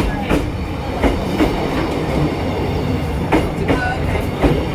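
Train passing at close range: a loud, steady rumble with irregular sharp clacks of the wheels over the rail joints.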